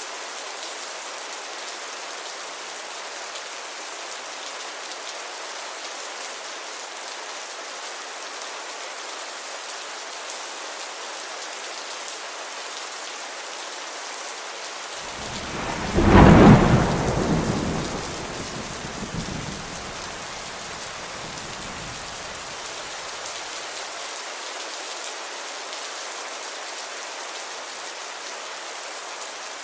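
Steady rain falling, with one clap of thunder about halfway through that rumbles for several seconds and fades away.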